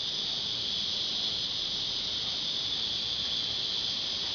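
Steady high-pitched hiss with a faint thin whine running through it, unchanging and with no other events.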